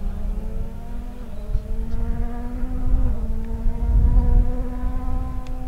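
Ford rally car's engine held at high revs, a steady buzzing note that climbs a little and then holds, over the low rumble of the car running on the stage.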